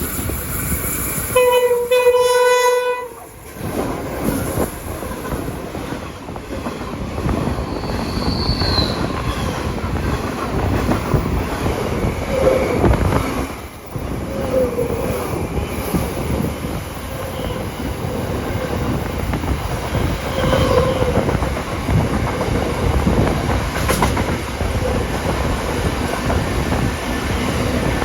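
Steam locomotive 3526's whistle sounds a short blast and then a longer one about two seconds in. After that comes the steady running noise and clickety-clack of the train's wheels on the rails, with brief faint squeals.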